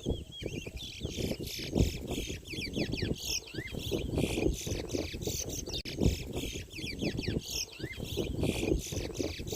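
Caged towa-towa (chestnut-bellied seed finch) singing a fast, unbroken run of quick sweeping chirps and whistles, each song a point in a singing race. Low rumbling noise and a few knocks run underneath.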